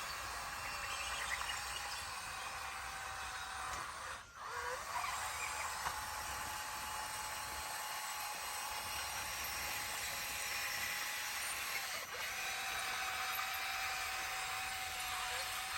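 Bulldozer engine running steadily with a whine. The pitch briefly sags and recovers twice, about four seconds in and again near twelve seconds.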